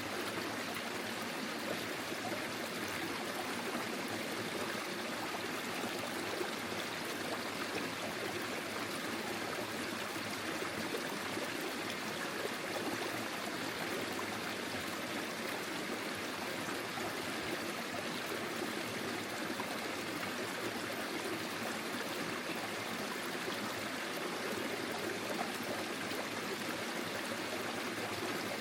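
Forest stream flowing steadily over stones, a continuous rushing and trickling of water with no breaks or changes.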